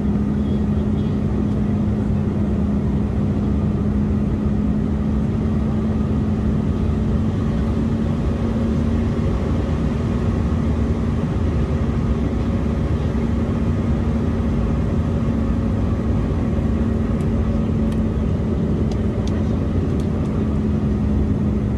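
Cabin noise inside an Embraer E175 airliner in flight: the steady rush of air and drone of its turbofan engines, with a constant low hum running through it.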